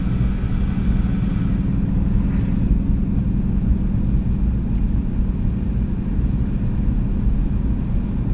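Steady low rumble of a running motor vehicle, with a constant low engine hum and no change in pitch.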